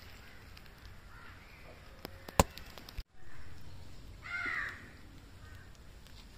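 A sharp click about two and a half seconds in, then a single short, harsh bird call around four and a half seconds in, over faint outdoor background noise.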